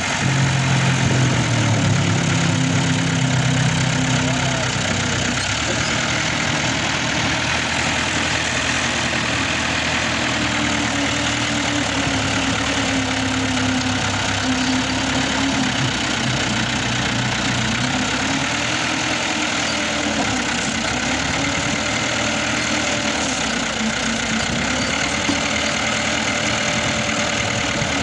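New Holland 640 tractor's diesel engine running steadily, its pitch dipping and rising now and then, a little louder in the first few seconds.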